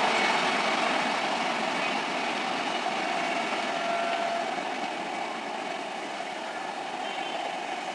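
Express passenger train receding after passing, its rumble and wheel noise fading steadily away.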